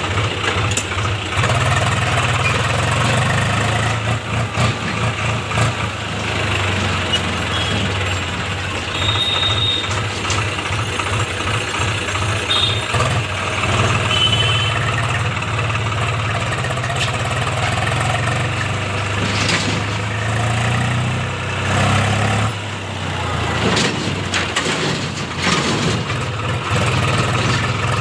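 Swaraj 834 XM tractor's three-cylinder diesel engine running steadily at low revs, with a brief dip in level about 22 seconds in.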